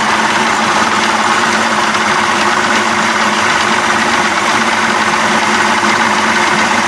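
1992 Johnson 60 hp two-stroke outboard motor running steadily, held at a constant speed while its ignition timing is checked with a timing light.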